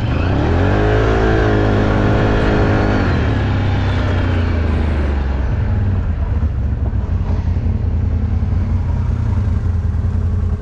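ATV engine revving up about half a second in, its pitch climbing and holding for a couple of seconds, then easing off to a steady run.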